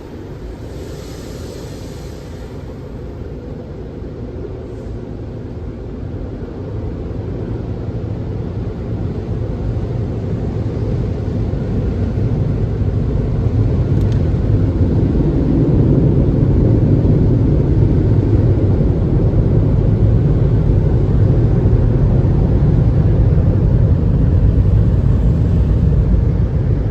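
Car wash machinery running: a steady low rumble that grows louder for about fifteen seconds, then holds.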